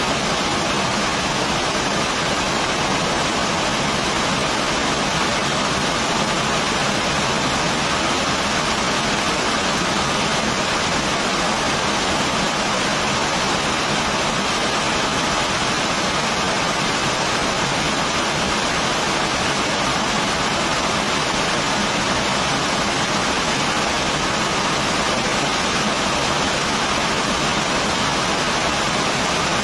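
Heavy rain falling, a steady, even hiss with no breaks or separate sounds.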